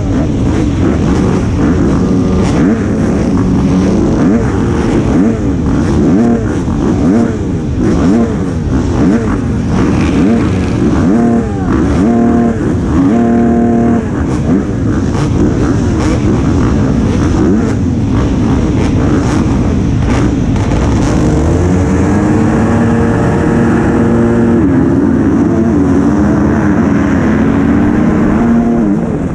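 Motocross bike engine heard from on board, revving up and down continuously as the rider accelerates, shifts and backs off around the track, with a few seconds of steadier held revs about halfway through.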